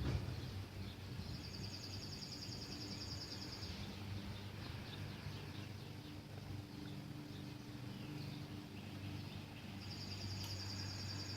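A songbird singing a fast, even trill twice, about eight seconds apart, with scattered short chirps from other birds over a steady low background rumble.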